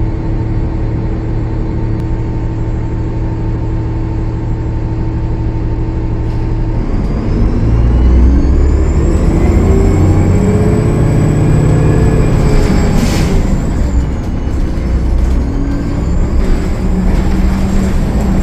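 Cummins ISL9 diesel of a 2013 Gillig Low Floor bus idling steadily, then accelerating from about seven seconds in, with a high turbocharger whistle rising and holding as it pulls away: the whistle is the sign of the bus's turbo leak. A brief hiss comes about halfway through, and the engine pulls harder again near the end.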